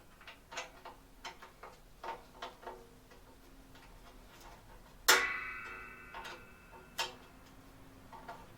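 Light metallic clicks and taps of hand tools and bolts being handled while a bracket is bolted on. About five seconds in, a piece of metal is struck with a loud clank that rings for more than a second, and a single sharp click follows about two seconds later.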